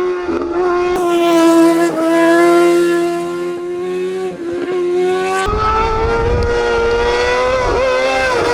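Racing engine held at high revs, its pitch dipping briefly several times, as at gear changes, and settling higher about five and a half seconds in, where a low rumble joins it.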